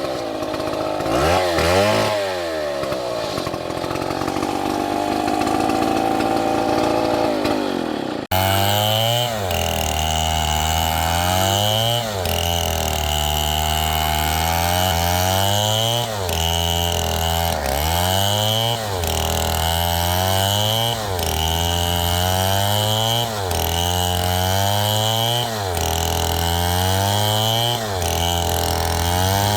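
Two-stroke chainsaw running at high revs, its pitch dipping and recovering again and again as it works. About eight seconds in the sound changes abruptly, and from there the dips come about every two seconds.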